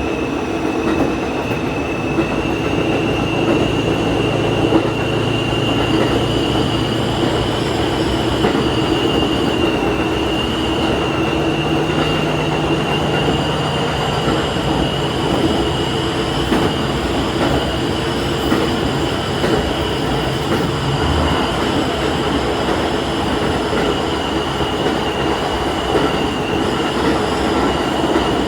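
Diesel railcar running along the line: steady engine and wheel-on-rail noise with a continuous high whine above it.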